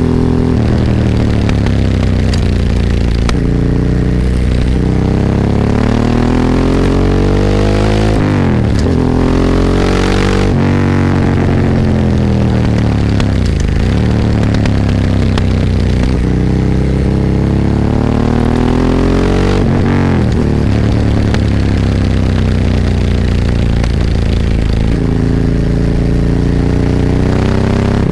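Ducati 998 L-twin engine heard onboard while ridden, its pitch rising under acceleration and dropping sharply at shifts about 8 and 10 seconds in. It climbs again to a peak about 20 seconds in, then settles lower and steadier.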